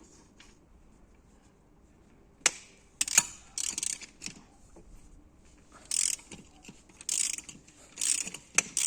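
Ratchet wrench being worked in short strokes, a rapid ratcheting rasp in bursts about a second apart, after a couple of sharp metal clicks about two and a half seconds in.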